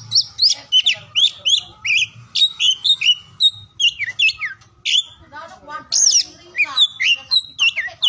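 Oriental magpie-robin (kacer) singing: a fast, varied run of whistled notes, up- and down-slurs and chirps, several a second without pause.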